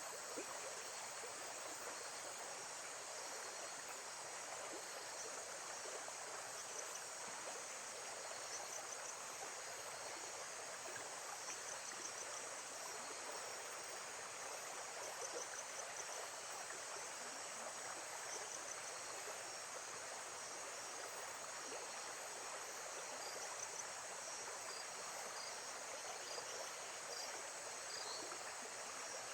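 Lakeside nature ambience: a steady, even rush of water, with faint short chirps of insects now and then above it.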